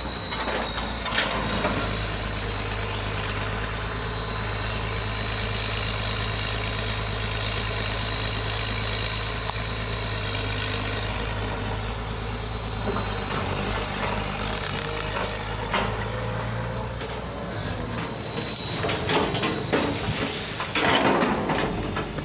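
A motor vehicle's engine runs steadily under road noise, with a thin high whine throughout. There are a few louder rushes of noise in the last few seconds.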